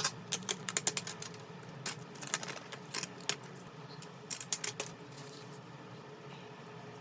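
Small sharp clicks and taps in quick, irregular runs from tools and phone parts being handled, thinning out after about five seconds, over a low steady hum.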